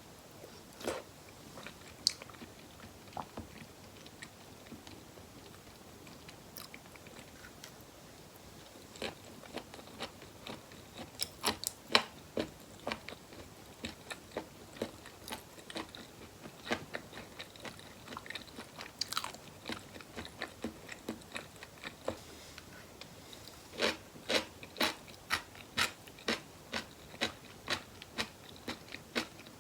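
A person chewing and crunching food close to the microphone in a no-talking mukbang of spicy boneless chicken feet with rice balls. A few scattered clicks come first, then steady chewing at about two crunchy chews a second, with a brief pause about two-thirds of the way through.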